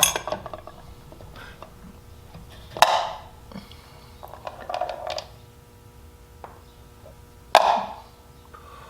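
Small carburetor parts being dropped one by one into a can of chem dip, with a few separate clinks and clatters a couple of seconds apart.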